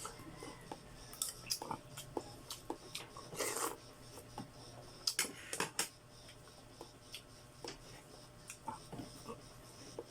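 Close-up eating sounds from chewing and sucking on chicken feet: many short wet clicks and smacks, with two longer sucking sounds, one in the middle and one a little later.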